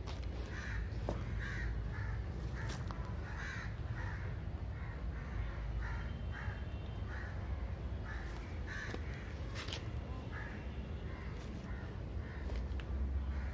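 Crows cawing over and over in a long run of short calls, over a steady low rumble.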